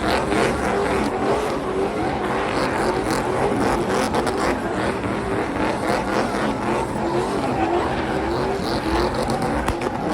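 Vehicle engines running loudly, with a steady noise and a wavering engine pitch that rises and falls as they are revved.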